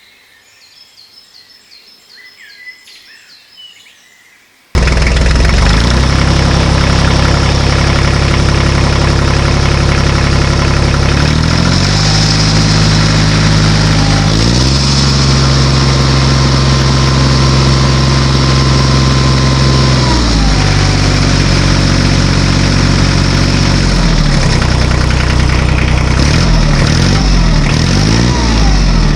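Faint high bird-like chirps, then about five seconds in a loud engine sound cuts in suddenly: a steady idle-like running whose pitch steps up and down several times and wavers near the end.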